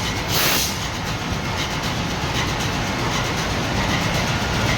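Marine diesel engine running steadily: a loud, even mechanical clatter and rumble of the kind heard in a ship's engine room.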